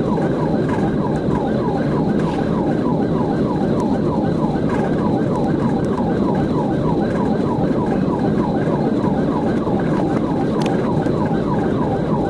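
Police car siren in a fast yelp, about four falling sweeps a second, steady throughout, over the steady rush of engine and road noise from a pursuit at over 100 mph.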